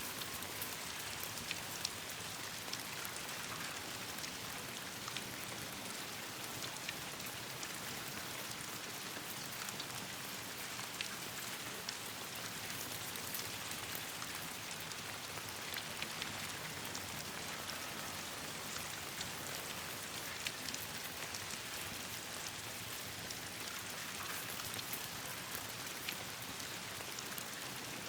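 Steady rain falling on leaves and branches, an even hiss with many scattered sharp ticks of individual drops.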